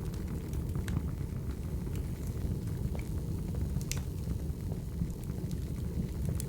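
Wood fire burning: a steady low rumble with scattered sharp crackles and pops from the logs.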